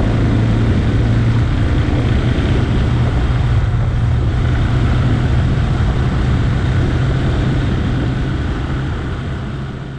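Motorcycle engine running at a steady speed with wind rush, a low even hum that fades out near the end.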